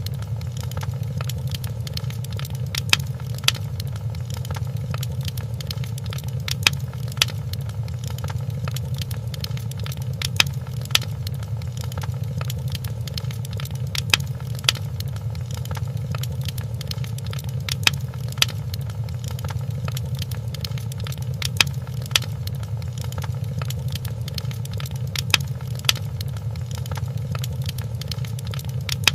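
Wood fire in a fireplace crackling, with a steady low rumble of the flames and sharp pops that come in pairs about every four seconds.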